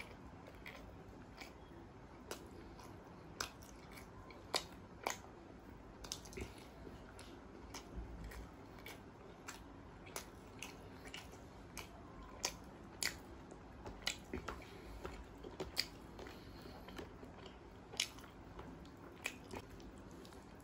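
Close-miked chewing with irregular sharp, wet mouth clicks and smacks as rice with dal makhani and kadhai paneer is eaten, along with fingers mixing rice into the dal.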